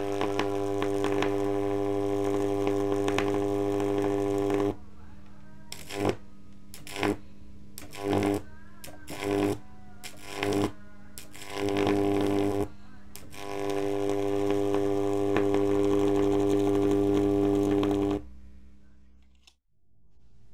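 High-voltage arc from a pair of microwave oven transformers (about 4000 V at 50 Hz), buzzing loudly with a steady 100 Hz hum. It runs for about five seconds, then comes in a string of about seven short bursts, then runs again for about five seconds before cutting off suddenly.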